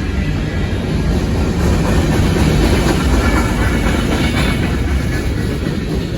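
BNSF manifest freight train rolling past, a steady rumble and clatter of wheels on the rails, a little louder in the middle.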